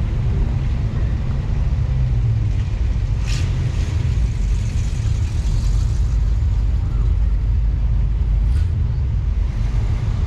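Steady low rumble of a car driving, picked up by a camera mounted on the car itself, with two brief hissy bursts about three and eight and a half seconds in.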